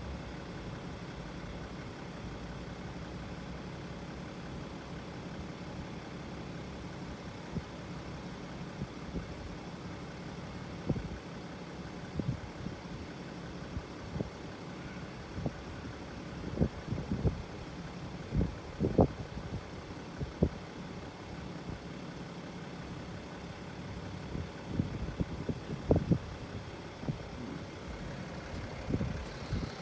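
Steady low engine hum, like a motor idling. From about eleven seconds in, short low knocks come and go over it.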